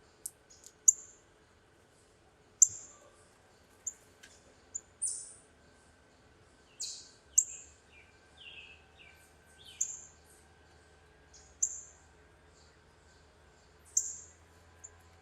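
Backyard songbirds calling: short, sharp, high chips repeated every second or two, with a few lower, downward-sliding notes in the middle.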